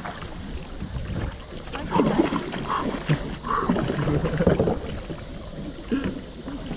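Sounds of paddling a kayak on open water: water sloshing and paddle splashes over a low rumble of wind on the microphone, with indistinct voices in the middle.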